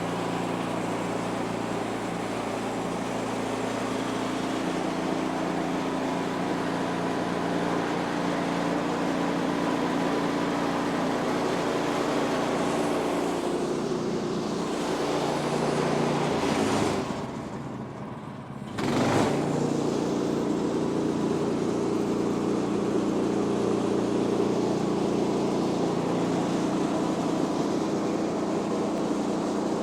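Woodland Mills HM126 portable bandsaw mill's gas engine running steadily, dropping away for about two seconds a little past the middle and then coming back.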